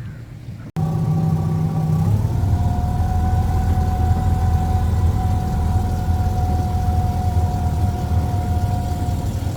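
Tour boat's engine running steadily: a low hum with a steady whine over it, which comes in abruptly under a second in and settles to a slightly lower pitch about two seconds in.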